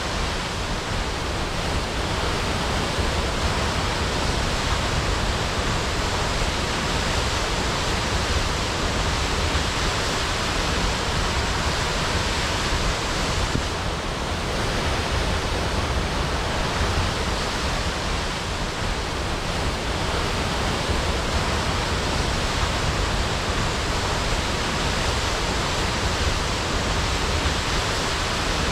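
Waterfall crashing: a steady, even rush of falling water with strong low rumble.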